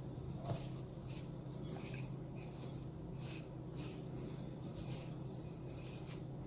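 Faint, scattered rustling of dry breadcrumbs as a raw chicken piece is turned and pressed in them by hand, over a steady low hum.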